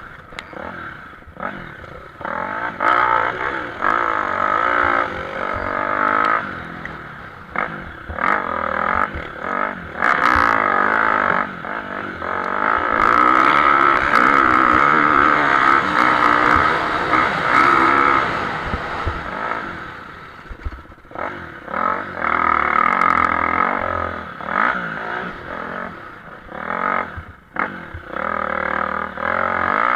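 Motocross bikes racing on a dirt track, engines revving up and down through the gears as they pass. Loudest in the middle, easing off about twenty seconds in, then picking up again.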